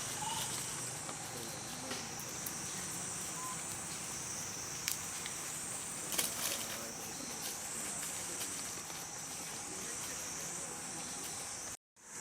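Forest insects droning steadily at a high pitch, with scattered light clicks and rustles; the sound cuts out abruptly for a moment near the end.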